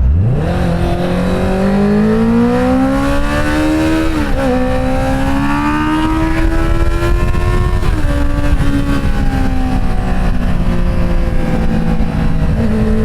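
Inline-four engine pulling away under acceleration. The revs climb, drop sharply at an upshift about four seconds in, climb again, drop at a second upshift about eight seconds in, then hold nearly steady at cruise.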